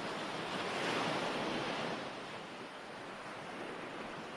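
Ocean waves washing on a shore: one wave swells, peaks about a second in, then slowly draws back.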